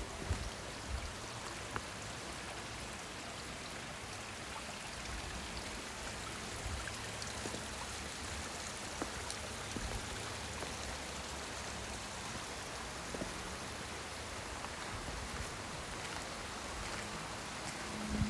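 Water running in a garden stream: a steady, even rush with a few faint ticks.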